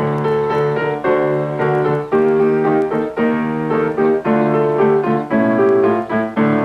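Solo piano playing an instrumental interlude, chords struck about twice a second in a steady bouncy rhythm.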